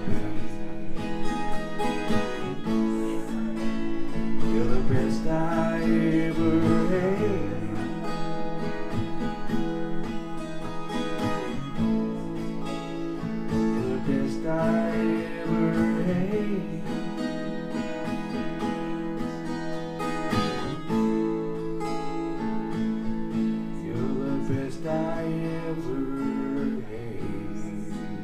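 Live acoustic guitar music: a passage of a song with strummed and plucked guitar and a wavering melodic line over it, gradually getting a little quieter toward the end.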